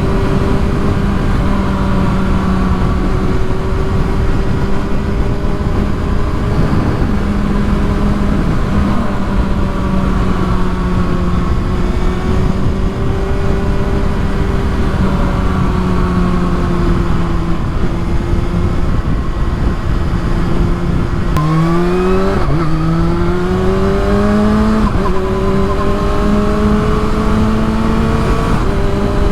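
Kawasaki ZX-6R sport bike's inline-four engine cruising at fairly steady revs. About 21 seconds in, the revs drop and climb steeply several times in quick succession as the bike shifts up through the gears and accelerates, then settle back to a steady cruise.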